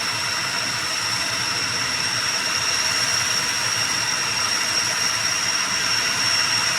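ATR 72-600's turboprop engines running, a steady high-pitched whine over a rushing hiss that grows a little louder near the end.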